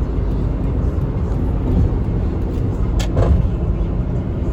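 Steady low rumble of engine and road noise inside the cabin of a 1999 Lexus RX 300 driving at high RPM, its 3.0 L V6 misfiring on cylinder 6 so the transmission is held in too low a gear. A single sharp click or knock cuts through about three seconds in.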